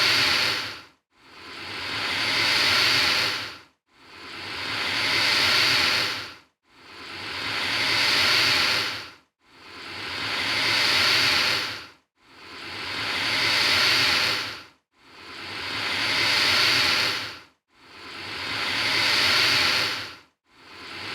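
Alligator hissing: the same hiss repeated about every three seconds, each one swelling louder over about two seconds and then cutting off sharply.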